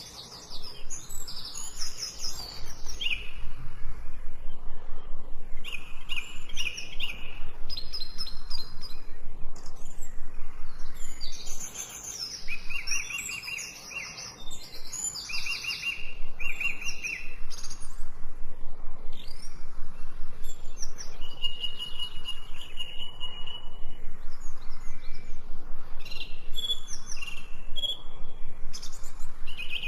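Birds chirping and singing, a dense run of quick repeated chirps, with a brief quieter spell about halfway through.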